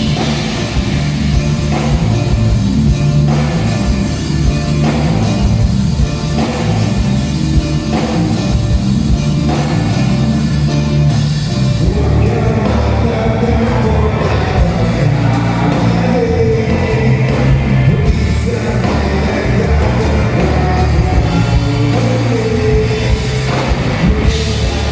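Live rock band playing: loud drums, bass and guitar with a steady beat, with a singer's voice coming in about halfway through.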